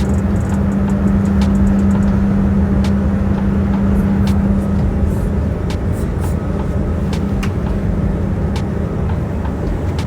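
Steady vehicle ride noise: a loud low rumble with a strong hum that weakens about halfway through, and scattered light clicks and rattles.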